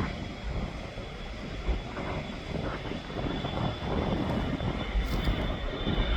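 Aircraft engines running: a low rumble with a thin steady whine that grows louder near the end, buffeted by wind on the microphone.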